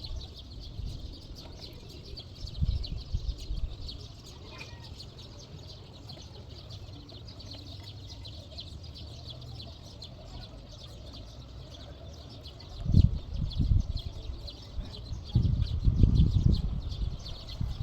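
Many small birds chirping continuously in a dense, overlapping chatter. Loud low rumbling bursts come briefly about three seconds in and again through the last five seconds.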